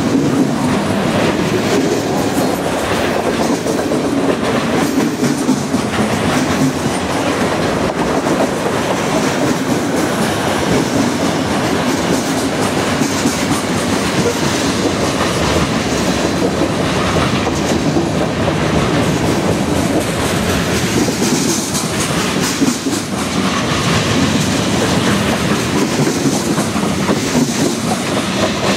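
Freight train cars, lumber-loaded flatcars and then tank cars, rolling past close by: a steady rumble of steel wheels on the rails with a constant rapid clatter of wheels.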